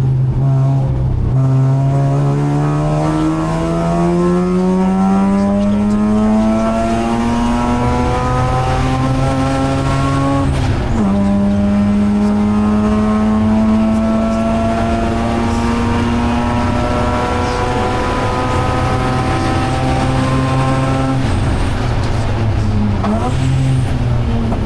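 Mazda RX-8 race car's twin-rotor rotary engine at full throttle, its note climbing steadily for about ten seconds, then falling sharply on an upshift and pulling on again. Near the end the note dips briefly as the throttle is lifted, then picks up again.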